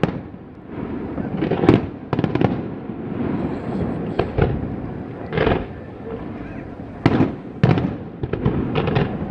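Fireworks display: aerial shells bursting one after another at irregular intervals, with loud bangs over a continuous crackle and rumble.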